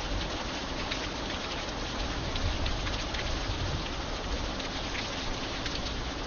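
Steady rain falling, with many separate drops heard striking close by among the even hiss.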